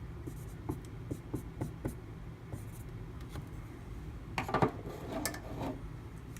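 Marker writing by hand: a few light ticks, then several scratchy strokes about four and a half seconds in.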